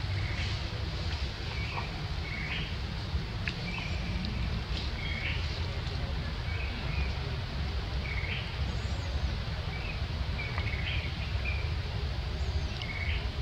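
A small bird chirping in short notes, about one a second, over a steady low rumble.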